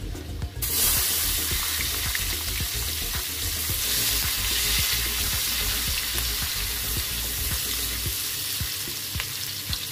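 Sliced shallots dropped into hot oil with frying garlic in a wok: the sizzle flares up suddenly about half a second in, then keeps frying steadily while a wooden spatula stirs and knocks against the pan.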